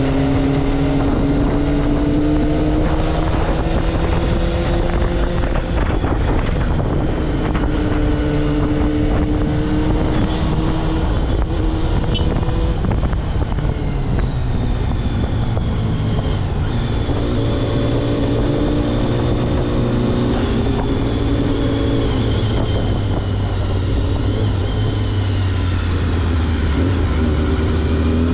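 Honda CBR250RR (MC22) 249 cc inline-four engine running at high revs while riding. Its pitch rises and falls and shifts in steps several times with throttle and gear changes, over heavy wind rush on the helmet-mounted microphone.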